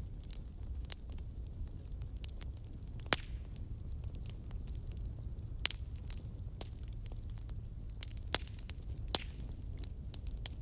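Wood campfire burning: a steady low rumble of the flames with irregular sharp crackles and pops from the burning wood, a few louder pops standing out.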